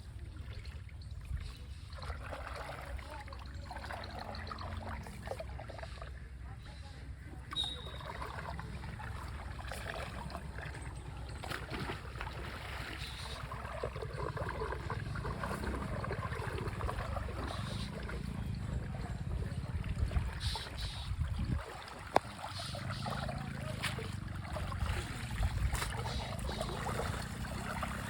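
Water trickling and splashing at a river, over a steady low rumble, with a few sharp clicks.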